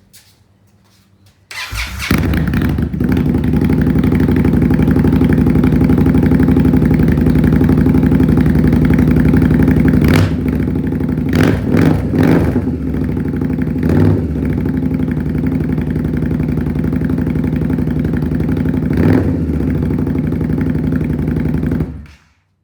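2020 Indian Scout Bobber's V-twin engine starting, idling steadily, and blipped a few times in the middle and once more later, then switched off.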